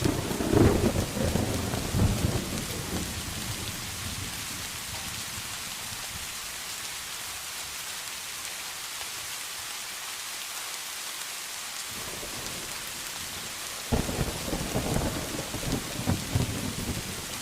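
Steady rain falling, with thunder rolling twice: a rumble in the first three seconds or so, then another that breaks in suddenly near the end.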